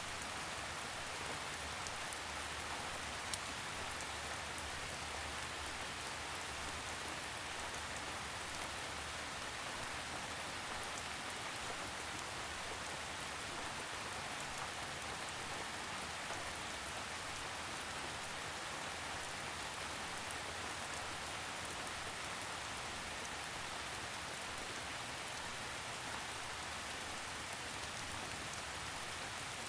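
Steady rain falling in a forest, with a soft even hiss and scattered drops pattering on leaves.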